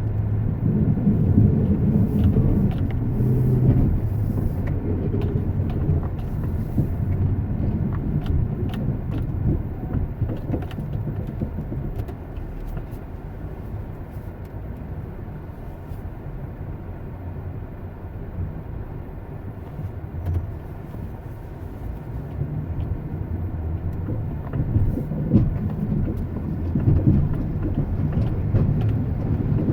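A motor vehicle running with a steady low rumble. It is louder at the start, eases off through the middle and builds again near the end.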